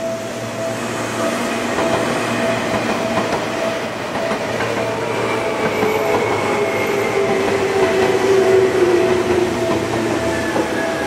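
Seibu 2000 series electric commuter train rolling past, wheels clicking over the rail joints and its motors whining down in pitch as it slows. A level-crossing alarm rings in a steady pulsing tone throughout.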